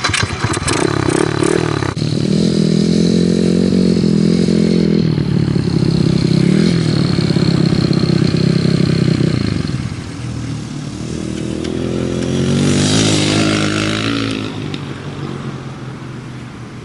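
Kawasaki KLX110L dirt bike's small four-stroke single engine cranked over with a clatter and catching about two seconds in. It then revs and pulls away, the pitch climbing and dropping as it goes through the gears. The revs drop, surge again about two-thirds of the way through, and the engine fades into the distance.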